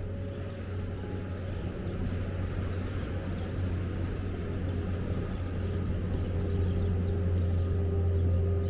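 A vehicle's engine running with a steady low hum over street noise, growing slightly louder toward the end.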